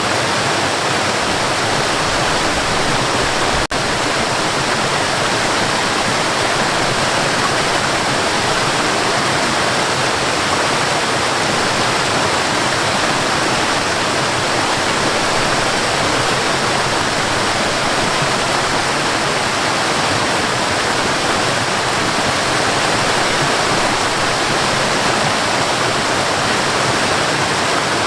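Waterfall rushing in a steady, loud roar of falling water, with a momentary dip in level about four seconds in.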